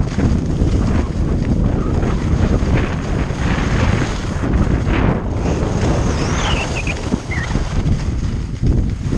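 Heavy wind buffeting the microphone during a downhill ski run, over the hiss and scrape of skis on snow, which swells and fades with the turns.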